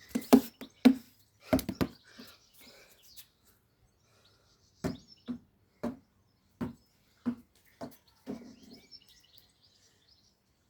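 A basketball bouncing on a hard floor. A few quick bounces come first, then after a pause a run of single bounces about every half second to two-thirds of a second.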